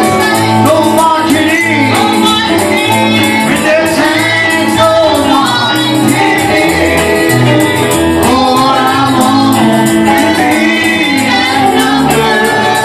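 Live gospel music: singing over a band with a bass line and a steady, fast percussion beat.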